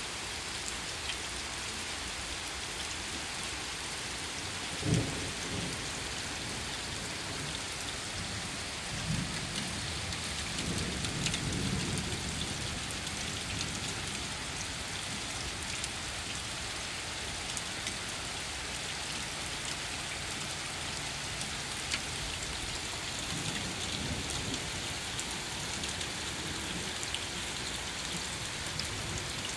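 Steady rain falling on a paved street, driveway and lawn. Low rumbles of thunder swell up about a third of the way in and again later, after a single sharp low thump about five seconds in.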